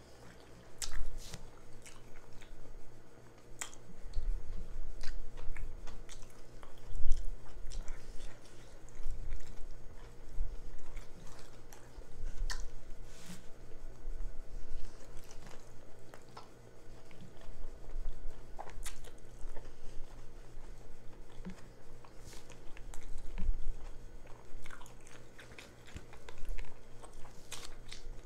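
A person chewing and smacking her lips as she eats sausage with her fingers, in irregular bouts with sharp clicks.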